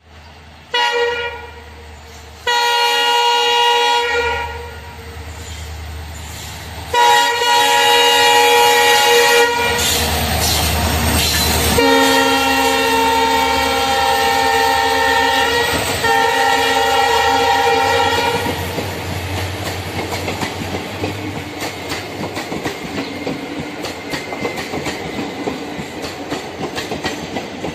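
Train horn sounding in five long blasts, the last two almost back to back, then the train's wheels clattering over the rail joints in a steady clickety-clack as it rolls past.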